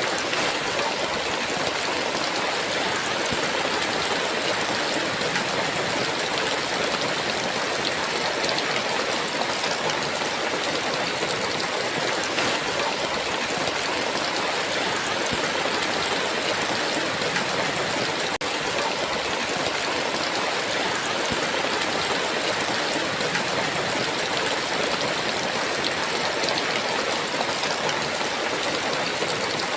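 Heavy rain falling steadily in a dense, even hiss, with no thunder.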